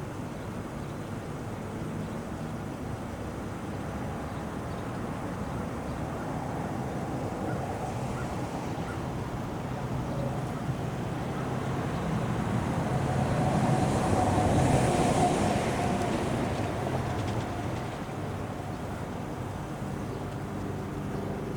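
Steady outdoor background rumble, with one passing vehicle swelling up about two-thirds of the way through and fading away again.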